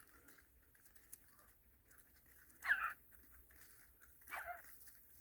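Two short animal calls, a few seconds apart, over a quiet background.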